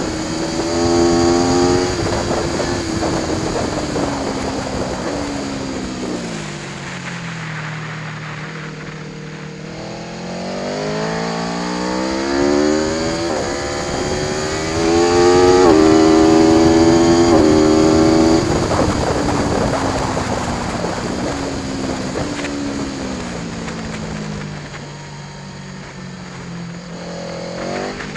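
Aprilia Tuono V4 1100 Factory's V4 engine under hard riding on a circuit. The pitch falls for the first several seconds as the bike slows, then climbs again from about ten seconds in, with quick stepped upshifts around the middle, where it is loudest. It then falls away once more as the bike slows for the next corner.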